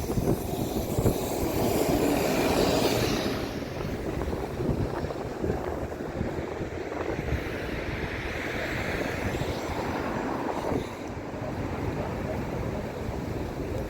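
Strong gusty wind buffeting the microphone: a constant low rumble with a louder hissing gust in the first few seconds.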